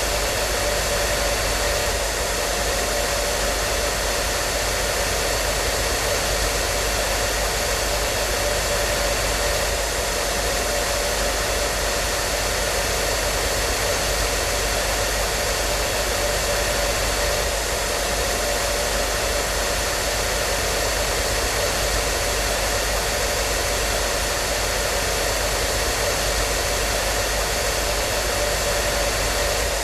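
Hair dryer running steadily: an even, unbroken blowing hiss with a faint steady motor whine in it.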